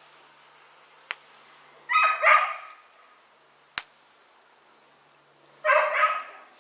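A dog barking two quick barks at a time, twice, with a couple of sharp snaps in between.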